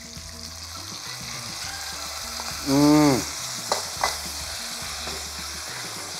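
Beef chunks, onions and speck sizzling as they fry in a hot red enamelled pot, with two sharp knocks against the pot a little after halfway. About three seconds in, a short pitched sound rises and falls over the frying, louder than it.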